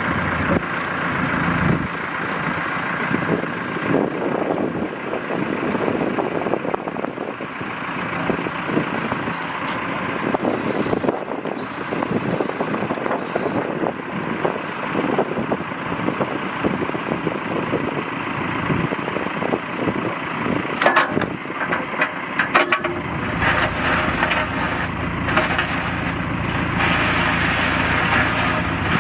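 CAT 430E backhoe loader's diesel engine running, its sound rising and falling unevenly. A brief high whine comes near the middle, a few sharp clicks follow later, and in the last few seconds the engine settles into a heavier, steadier hum.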